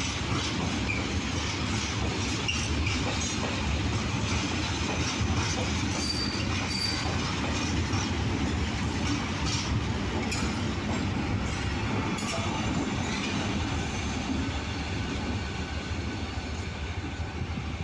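Freight train wagons rolling past on the rails with a steady clatter and rumble of wheels, and two short high wheel squeals about six seconds in.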